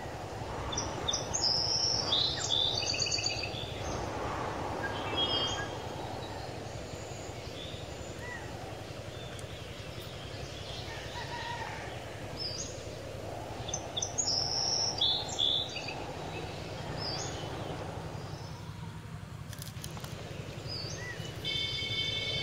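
Birds chirping in short bursts, a cluster about a second in and another about halfway through, over a steady background of outdoor noise.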